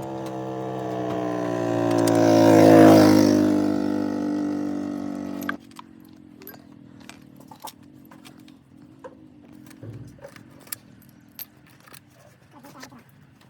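A motor vehicle's engine drives past close by, swelling to its loudest about three seconds in and dropping slightly in pitch, then cuts off abruptly. Faint metallic clinks and taps of hand tools on metal follow.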